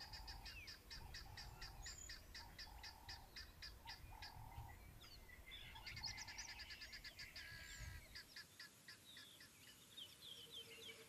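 Faint birdsong: a rapid, evenly repeated high chirping, with a lower call repeating under it. The chirping breaks off about halfway through and starts up again, more varied, a little later.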